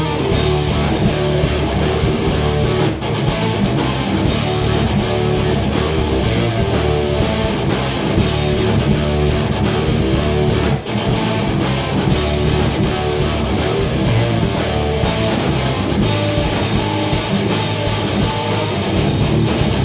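A band playing an alternative-metal song with electric guitars, loud and steady.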